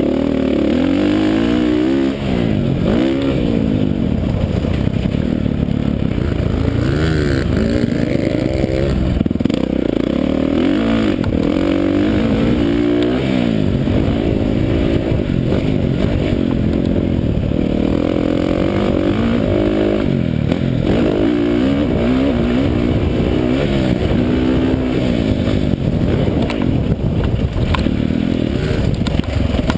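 Motocross dirt bike engine running hard, its pitch repeatedly climbing under throttle and dropping off every second or two as it is ridden around the track.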